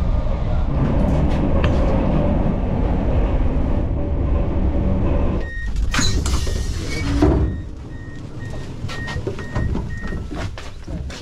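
Electric commuter train running with a steady rumble that drops away about halfway through as it stops at a station. A burst of air hiss follows, then a run of short, even, high beeps, typical of the door signal as the doors open.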